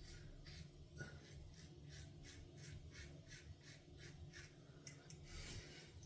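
Faint, even brushing strokes, about three a second, of a shaving brush working wet lather over the face.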